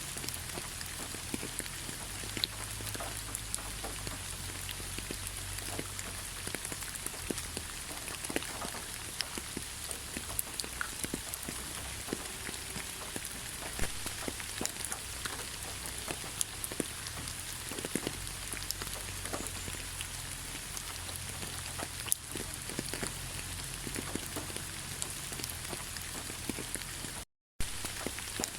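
Steady rain, with many individual drops ticking on a surface over an even hiss. The sound cuts out completely for a split second near the end.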